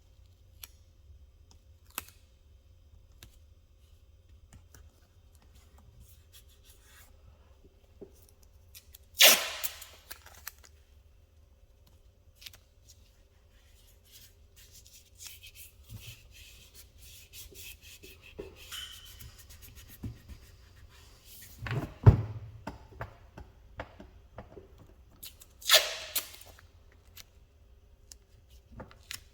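Hands working at a bench: scattered small clicks and rubbing, two short loud rasping bursts about 9 and 26 seconds in, and a dull thump about 22 seconds in.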